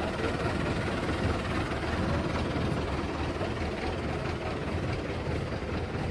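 Belarus tractor's diesel engine running steadily with a low rumble.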